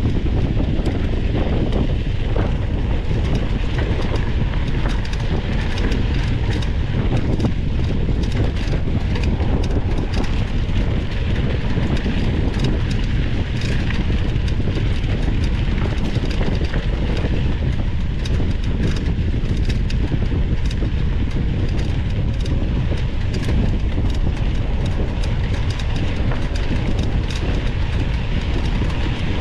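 Mountain bike ridden over rough dirt trail, recorded from a bike-mounted camera: a steady low rumble of wind on the microphone with constant irregular rattling and clatter from the bike and mount over the bumps.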